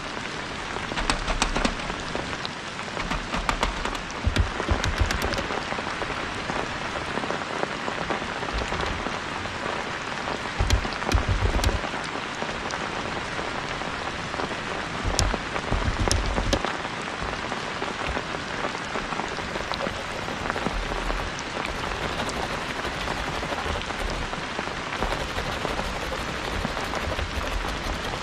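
Steady rain falling, with many sharp individual drop hits close by. A few brief low rumbles rise and fade along the way.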